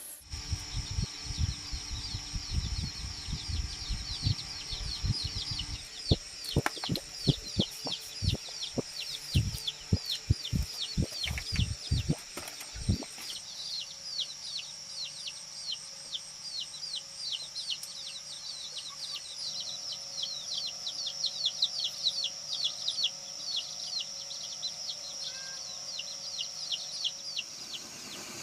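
Chicks peeping without a break: short, high calls falling in pitch, several a second. Low thuds and knocks run under the peeping through the first half and then stop.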